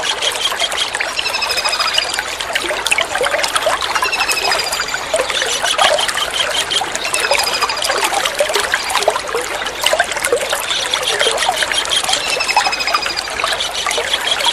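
Kingfisher calls: short trilled calls, each slightly falling in pitch, repeated about every three seconds over steady trickling water.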